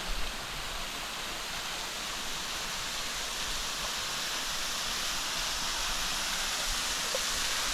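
Waterfall rushing: a steady, even rush of falling water that grows slowly louder.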